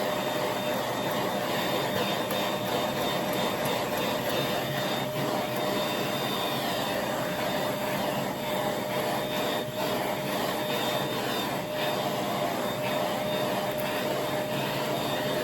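Pet grooming vacuum running in its combined brushing-and-drying mode: a steady rush of air with a constant motor whine.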